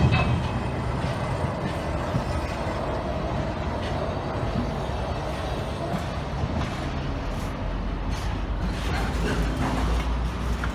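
Train running on the line: a steady rumble with a faint whine, and a deeper engine rumble building up about eight seconds in.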